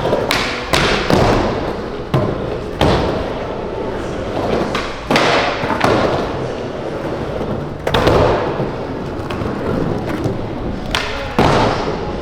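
Skateboards landing and rolling on park ramps: a string of hard thuds and board slaps, one every second or two, each trailed by wheel roll and a hall-like echo.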